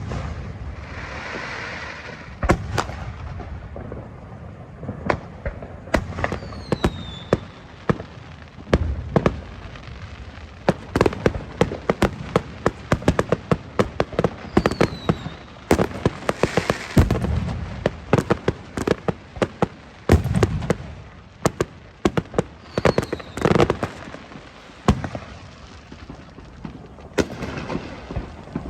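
Aerial fireworks display: a steady run of sharp bangs and deep booms from bursting shells, with clusters of rapid crackling and a few short falling whistles.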